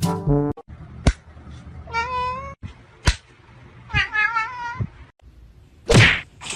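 A domestic cat meowing twice, each meow drawn out for under a second with a wavering pitch. A couple of sharp clicks fall between the meows, and there is a short loud noise near the end.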